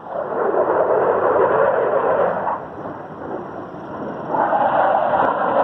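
Jet aircraft noise at an air show: a loud rushing sound that comes on suddenly, eases off about two and a half seconds in, and swells again near the end.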